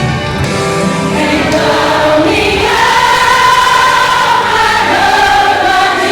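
A women's gospel choir singing with instrumental backing, holding long sung notes that slide in pitch.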